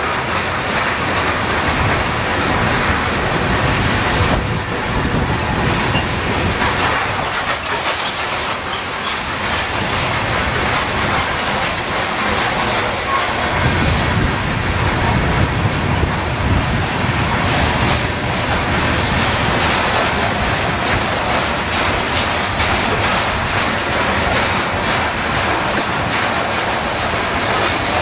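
Freight cars (covered hoppers and tank cars) rolling past close by, their steel wheels rumbling and clacking over the rails without a break. The low rumble swells about halfway through.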